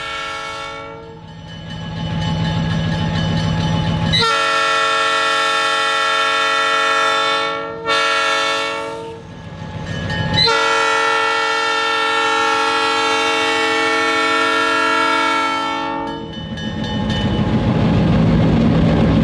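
Diesel locomotive air horn sounding the grade-crossing signal: the end of a long blast, then a long blast, a short one and a final long blast. Under it runs the low rumble of the moving train, which grows louder near the end as it comes closer.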